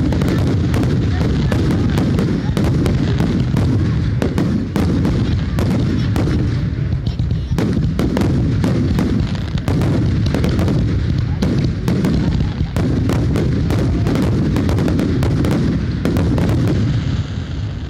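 Dense, rapid barrage of aerial firework shells bursting, with many sharp reports overlapping over a continuous low rumble. The barrage eases off just before the end.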